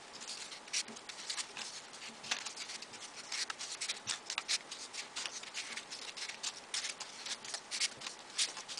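Folded paper modular origami pieces being slotted onto the model by hand: irregular soft paper clicks and rustles, several a second.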